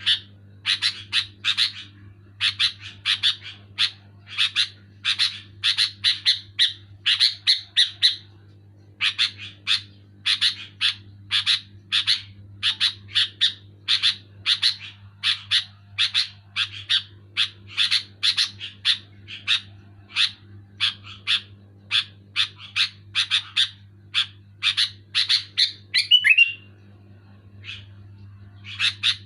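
Sooty-headed bulbul calling loudly and insistently, a fast run of short, bright chirping notes several to the second, with a brief break near the end.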